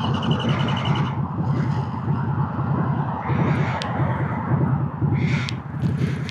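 Motorcycle engine idling with a rapid, steady putter, with short bursts of hiss over it.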